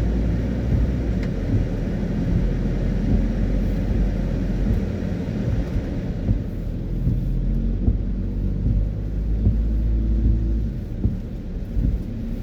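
Car driving on a wet road in the rain: a steady low rumble of engine and tyres, with the higher hiss easing off about halfway through.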